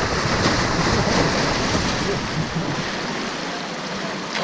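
Steady rush of river water around a boat running the rapids, with a low rumble under it that drops away about three seconds in.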